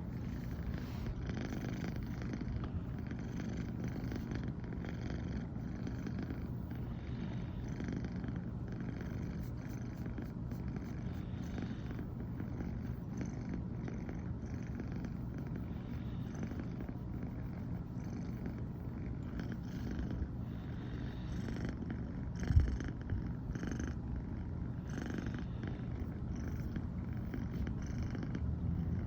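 American Shorthair cat purring steadily, the rumble pulsing about once a second with each breath in and out. A single short knock sounds about three quarters of the way through.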